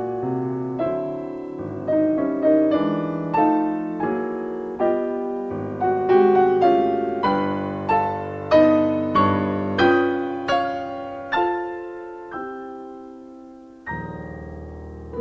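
Solo piano playing a slow classical piece, single notes and chords struck about once or twice a second, each ringing and fading away; a softer chord in a lower register enters near the end.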